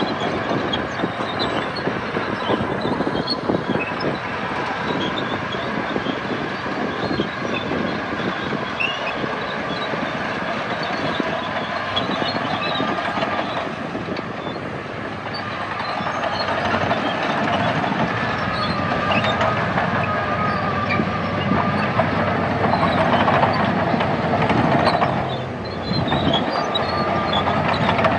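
Crawler bulldozer working, its diesel engine running under the clanking and squealing of its steel tracks.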